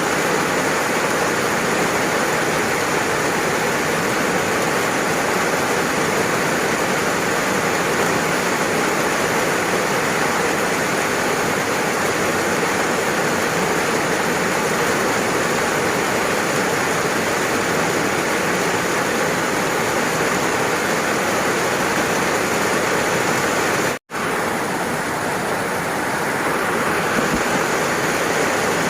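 Steady heavy rain, a dense, even hiss with no distinct drops standing out. Near the end the sound cuts out for an instant and resumes.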